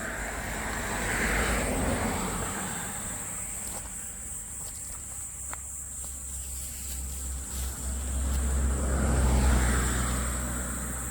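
Two road vehicles passing by, each swelling up and fading away: one about a second in, and a second, louder one with a deeper rumble near the end.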